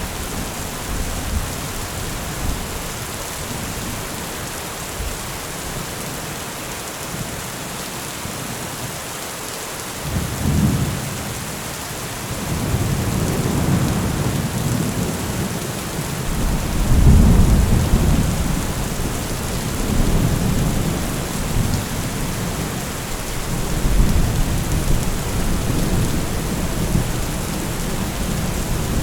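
Steady rain with rolling thunder. The rain hisses evenly throughout, and low rumbles of thunder swell in about a third of the way through, the loudest roll near the middle.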